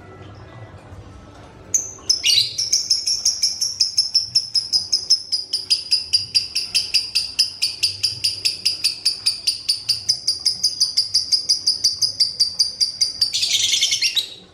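Fighter-type lovebird singing a long ngekek: about two seconds in, a rapid run of high chirps, about six a second, starts and holds for some twelve seconds, ending in a short harsher rasp.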